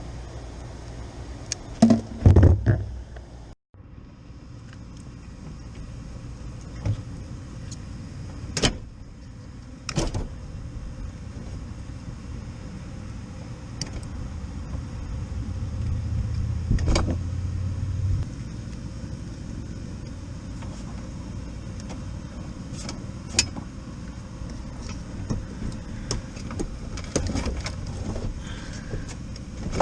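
Scattered clicks and knocks from hand tools and parts being handled during wiring work, over a steady low hum. A louder cluster of knocks comes about two seconds in.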